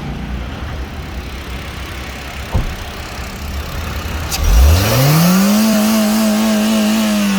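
Honda Brio engine idling with a low rumble, then revved up quickly a little past halfway and held at higher revs. It is being tested for throttle response after the ECM was replaced to cure an open injector-circuit fault and an accelerator problem. There is a single short click before the rev.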